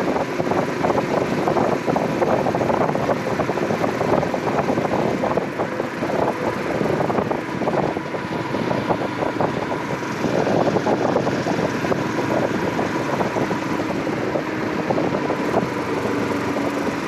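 Royal Enfield Himalayan 411's single-cylinder engine running steadily on the move, with wind rushing over the microphone.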